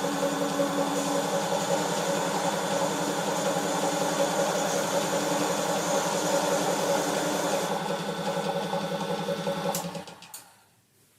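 A motor running steadily, then switched off about ten seconds in and dying away within a second.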